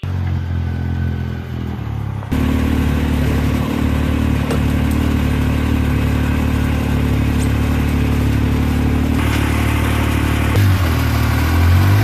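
Yamaha YXZ 1000R side-by-side's three-cylinder engine running steadily, getting louder about two seconds in, with a small rise and fall in pitch near the end.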